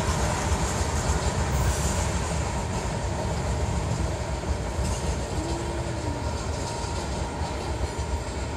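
The rear freight cars of a long mixed freight train rolling away on the main line: a steady rumble and clatter of wheels on the rails, slowly fading as the train recedes.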